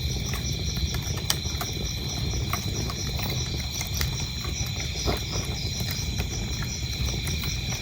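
Wood fire crackling, with irregular sharp pops over a low steady rumble, and crickets chirping in a steady, evenly pulsing high trill.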